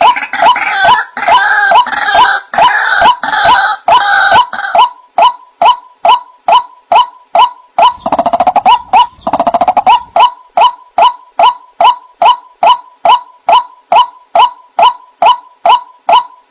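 White-breasted waterhen (ruak-ruak) calling: a fast run of short, repeated notes, about two to three a second, mixed with a rough, harsh chatter during the first five seconds and again briefly in the middle. It is a recorded lure call used to draw in waterhens.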